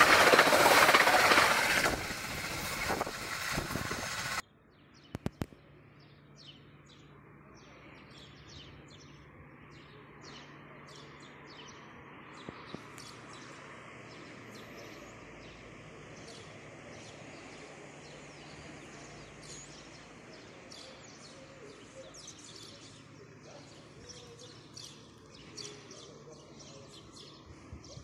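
A train passing close by at speed with a loud rushing, rattling rail noise that cuts off abruptly about four seconds in. After that, birds chirp over a faint steady low hum.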